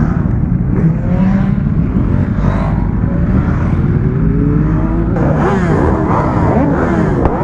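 Several superbike engines running loudly together, with engine notes rising and falling over one another as they rev from about five seconds in.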